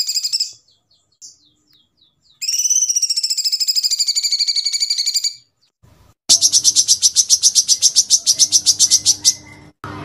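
Recorded songbird song of the kind used as a bird-song master: long, very rapid high-pitched trilled rolls. One roll ends just after the start, a second lasts about three seconds, and a third comes from a noisier recording with a low hum under it and starts about six seconds in. A brief cut near the end is followed by more trilling.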